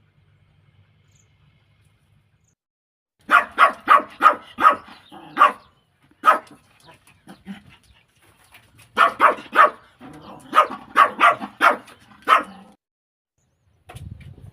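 A dog barking in two quick runs of short barks, a few seconds apart, after about three seconds of quiet.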